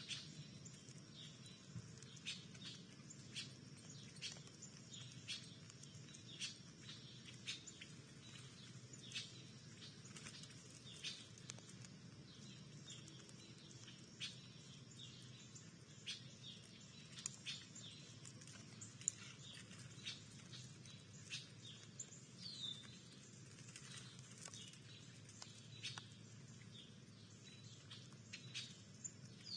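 Small songbirds giving short, high chirps and call notes, about one or two a second, with a couple of downward-sliding calls near the end, over a faint steady low hum.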